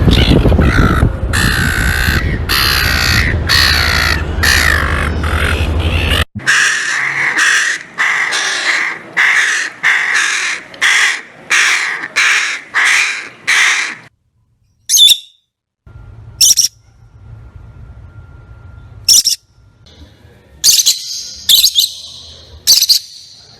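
Bird calling: a long series of harsh, evenly spaced calls, about one or two a second, for the first half, then a few short, sharp, higher-pitched calls. A loud low background rumble stops suddenly about six seconds in while the calls go on.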